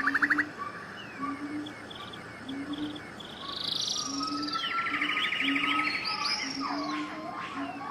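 Several wild birds singing at once, with fast trills, high chirps and whistled notes that slide up and down. Under them runs a short low note, repeated irregularly.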